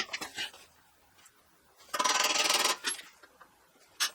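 Metal tools clinking and knocking, with a burst of fast, even clicking lasting under a second about two seconds in, and a single sharp click near the end.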